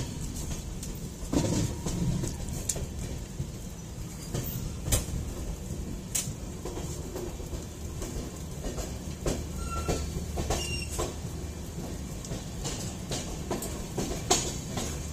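Passenger train running, heard from on board: a steady low rumble with irregular sharp clicks and knocks from the wheels on the track.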